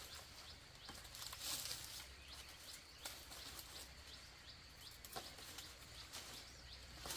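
Faint outdoor ambience of small birds chirping in short repeated calls, with a few scattered light knocks.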